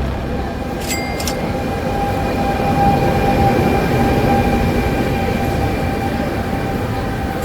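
Train running on the rails: a steady rumble with a held whine over it, and two sharp clicks about a second in.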